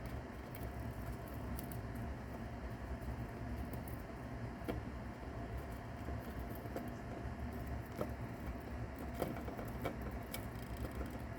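Mouse chewing and crunching a cicada's hard body: irregular small clicks and crackles over a steady low hum.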